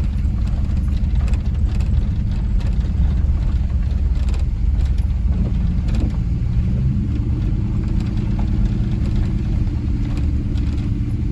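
Four-wheel-drive pickup truck driving slowly, its engine and road rumble heard from inside the cab; a steadier engine hum comes in about seven seconds in.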